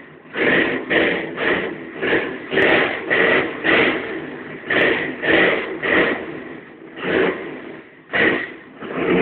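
Motorcycle engine being revved in quick, repeated throttle blips, about two a second, over a steady idle. Near the end the revs sag low for a moment, then pick up again.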